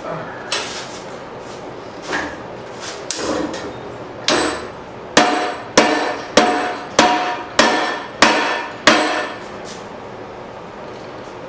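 Blacksmith's hammer striking hot half-inch round steel stock on an anvil: a few scattered blows, then a steady run of about seven ringing blows roughly every 0.6 seconds before it stops.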